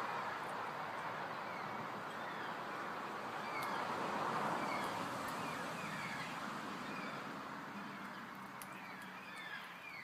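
Birds chirping: many short, quick calls, coming more often near the end, over a steady rushing background noise that swells about four seconds in and then fades.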